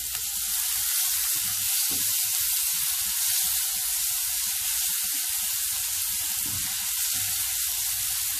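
Frozen green peas sizzling in hot oil and onion-spice masala in a nonstick kadhai: a steady frying hiss, with soft, irregular scrapes and taps of the spatula as they are stirred.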